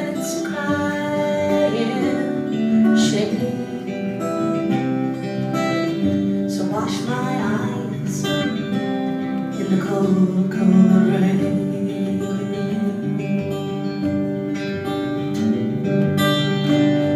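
Acoustic guitar playing the slow intro of a song, with held, ringing notes.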